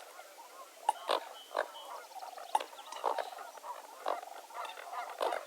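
Wetland chorus of many overlapping short, harsh calls from birds and other marsh animals, with a louder sharp call standing out every second or so.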